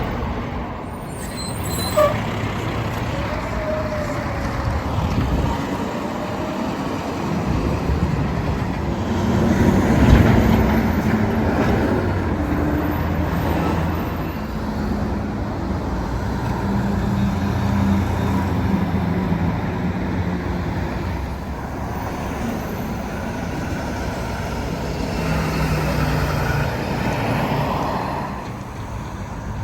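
Garbage truck's diesel engine running, with street traffic around it. There is a sharp knock about two seconds in, and the engine grows louder around the middle.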